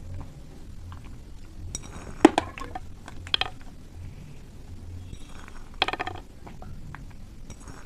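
A spoon clinking sharply against a dish a few times, short ringing taps about two, three and six seconds in, as toppings are spooned onto the puris.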